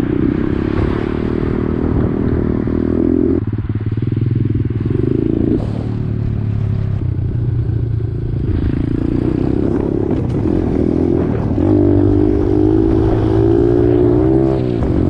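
Pit bike's small single-cylinder engine running under way, its pitch rising and dropping several times as the throttle is worked and gears change.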